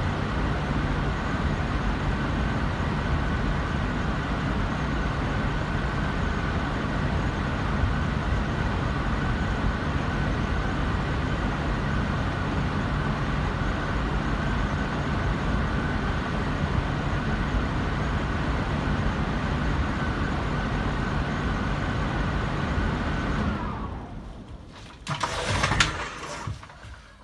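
Payne indoor air handler's blower running steadily with a low hum and an airy rush, then winding down and stopping near the end as the unit shuts off. A few short knocks follow.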